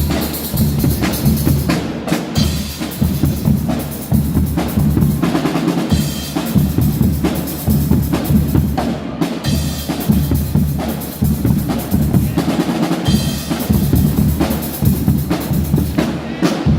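Guggenmusik carnival band playing, its drum section loud in front: a driving beat of bass and snare drums.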